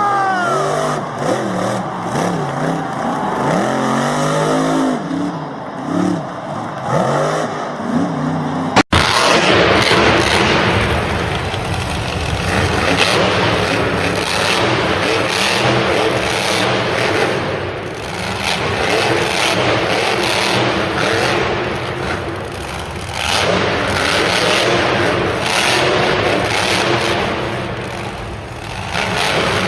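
Monster truck engines revving loudly in surges, with a brief dropout about nine seconds in.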